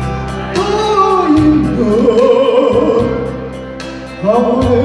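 A man singing a trot ballad over a backing track with a steady beat, his voice wavering with vibrato; the voice drops away briefly near the end and comes back loudly.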